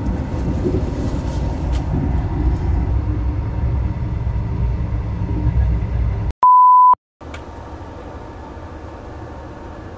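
Low rumble of a sleeper train carriage running, heard from inside a berth. About six seconds in it cuts off for a short, loud, steady beep with silence around it, then a quieter carriage rumble resumes.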